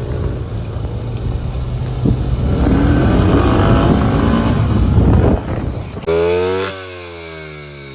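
Small off-road engines running under throttle on a dirt trail, rough and growing louder, then cutting off sharply about five seconds in. About a second later a single engine note rises and then falls in pitch as it fades.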